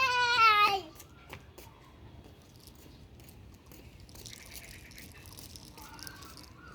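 A cat's long meow, falling in pitch, trails off and ends about a second in. After it come only faint rustling and small clicks.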